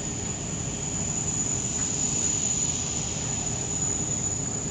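Steady background rumble and hiss with a continuous high-pitched whine.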